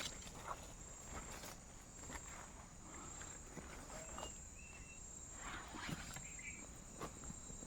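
Footsteps and rustling on the jungle floor, faint and irregular, over a steady high-pitched drone of insects.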